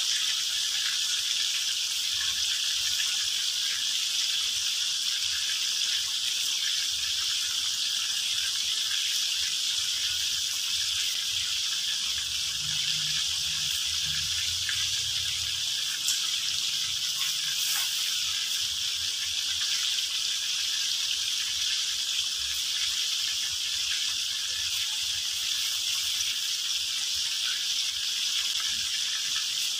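Chicken pieces deep-frying in a wok of hot oil: a steady sizzle with a few small crackles scattered through it.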